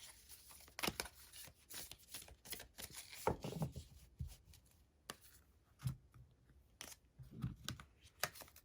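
A deck of oracle cards being shuffled and handled by hand for a draw, with irregular soft flicks and taps of the cards and a few dull low knocks.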